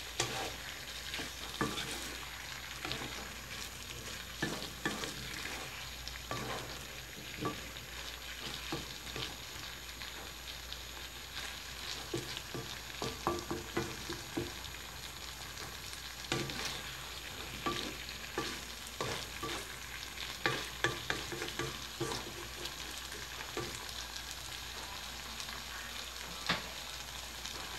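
Chicken liver and gizzard adobo with potatoes and carrots sizzling in a coated wok, with a spatula scraping and knocking against the pan in irregular strokes as it is stirred.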